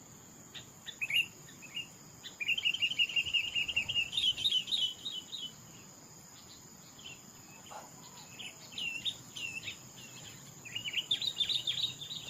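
A bird singing fast runs of high chirps, twice, with a few separate looping notes between, over a steady high insect drone.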